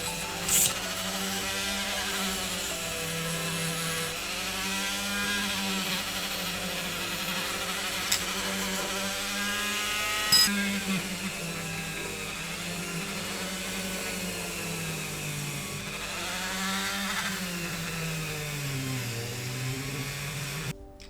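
Small high-speed rotary tool with a wire brush scrubbing a bare diecast metal casting. The motor's pitch wavers and dips as the brush is pressed on, over a scratchy hiss, with a few sharp clicks. The sound stops abruptly near the end.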